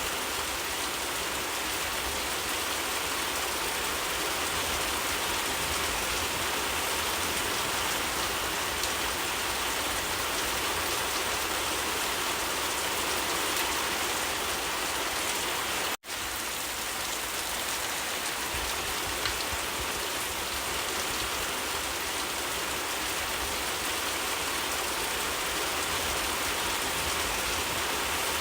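Steady rain falling, an even dense hiss with pattering drops. It cuts out for an instant about halfway through, then resumes unchanged.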